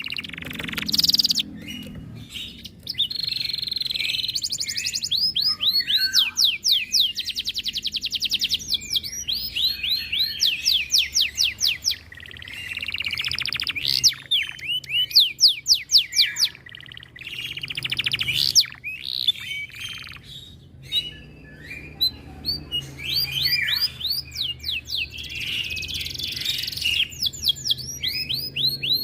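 Domestic canary singing a long, continuous song of fast rolled trills and rapidly repeated sweeping notes, with only brief pauses between phrases.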